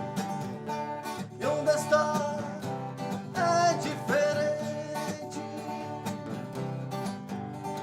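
Blues-rock band playing an instrumental passage led by guitar, with a melody line that bends up in pitch twice over a steady bass and chords.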